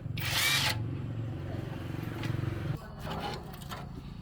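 A machine's motor running steadily with a low hum, with a loud hiss in the first second; the running sound drops and changes abruptly near three seconds in.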